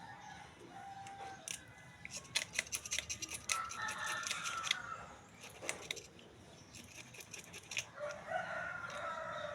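A rooster crowing, with a long call about three and a half seconds in and another near the end, among a run of sharp clicks and taps.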